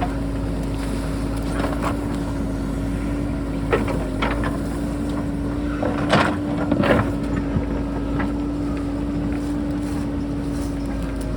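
JCB backhoe's diesel engine running steadily, with a few sharp knocks and scrapes of the bucket on rock; the loudest come about six and seven seconds in.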